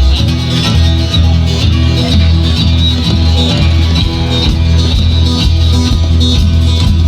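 A band playing the instrumental opening of a song before the vocals come in, over a steady, driving bass line.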